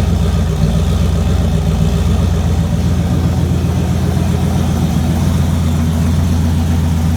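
Turbocharged Fox-body Mustang engine idling fairly smoothly as it warms up after a cold start. The idle note shifts slightly about three seconds in.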